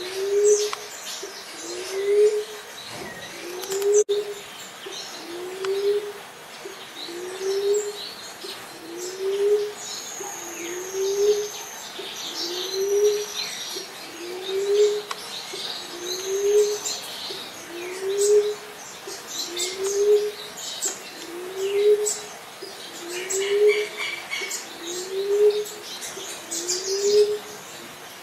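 Emerald dove calling a long series of low, soft coos, each rising slightly in pitch, repeated evenly about every second and three-quarters. Other small birds chirp faintly in the background.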